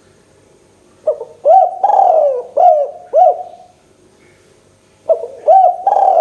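Spotted dove (tekukur) cooing: a phrase of several short, rising-then-falling coo notes about a second in, and the phrase repeated near the end.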